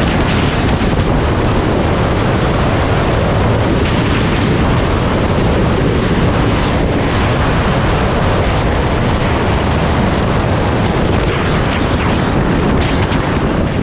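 Loud, steady wind rush buffeting the microphone of a rider on a moving motorcycle, mixed with the bike's road and engine noise.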